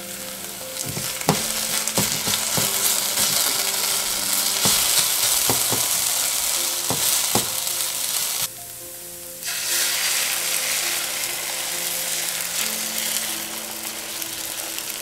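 Grated potato sizzling as it fries in olive oil in a nonstick frying pan, with the knocks and scrapes of a silicone spatula stirring it through the first half. The sizzle drops away for about a second just past the middle, then carries on.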